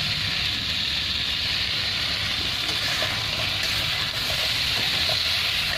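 Food sizzling steadily in hot oil in a pan as the masala is cooked, an even hiss over a low steady hum.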